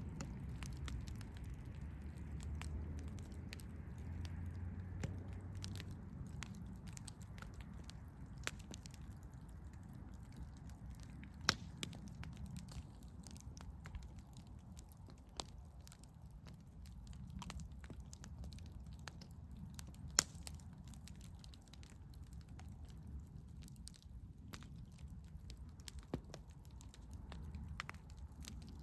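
Campfire burning: a low, steady rumble of flames with scattered sharp crackles and pops from the burning wood, a few of them much louder than the rest.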